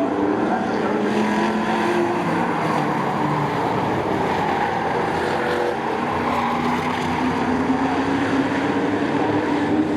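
Several race trucks' engines running in a pack on a short oval track, their pitches rising and falling as they accelerate and lift through the turns.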